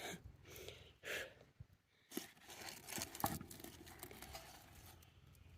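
Faint, scattered scrapes and knocks as the lid of a cast iron Dutch oven is handled and lifted to check a cake baking on campfire coals.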